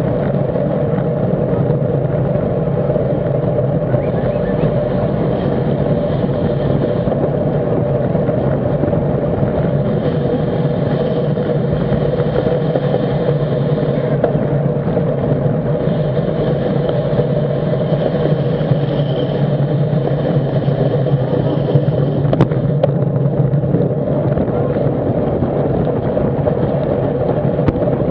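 Steady rush of wind and road noise on a camera mounted on a racing bicycle at race speed, with one sharp click about two-thirds of the way through.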